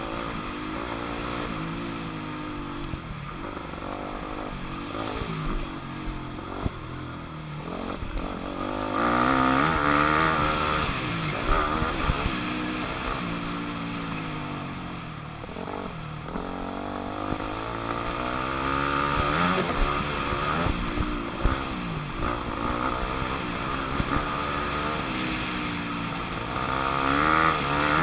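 2006 Yamaha 250F dirt bike's four-stroke single-cylinder engine being ridden hard, its pitch rising and falling again and again as the rider opens and closes the throttle. It is loudest about nine seconds in and again near the end.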